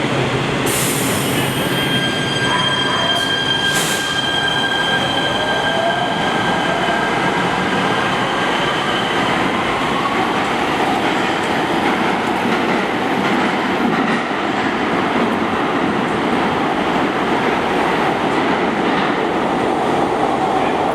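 Metro rail train running through the station with continuous loud rail and wheel noise. A steady high whine sounds for several seconds early in the passage, and fainter motor tones glide up and down in pitch.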